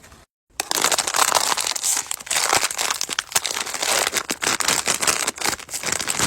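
Food packaging crinkling as it is handled, a dense run of rapid crackles that starts after a brief silence near the start.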